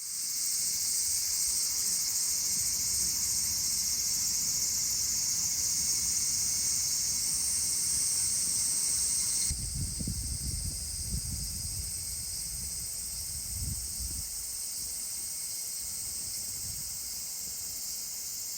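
Cicadas singing in a dense, steady high-pitched buzz. About halfway through, the buzz abruptly drops in level, with some low rumbling beneath it.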